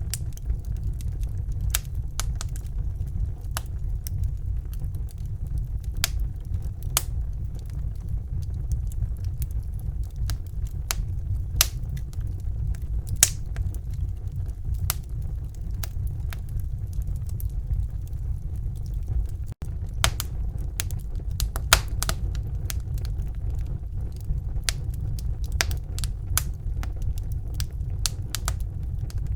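Wood fire burning in a fireplace: a steady low rumble with irregular sharp crackles and pops, which come more often in the last third. A split-second dropout cuts the sound about two-thirds of the way through.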